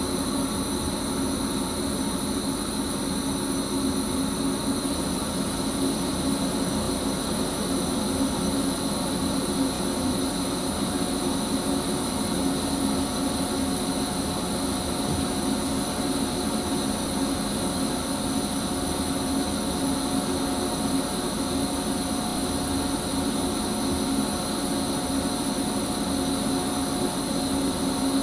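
Steady hum and whir heard in the driver's cab of a Sprinter electric commuter train, with several constant tones over an even rushing noise and no change in pitch.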